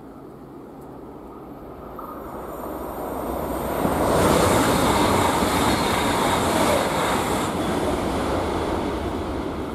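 A Trenitalia high-speed train passing at speed: a rushing noise that builds over about four seconds, stays loud for about three, then fades.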